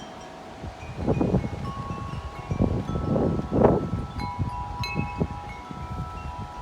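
Tubular wind chimes ringing in gusty wind, several tones sounding together, with fresh strikes about four and five seconds in. Wind gusts buffet the microphone from about a second in, strongest near the middle.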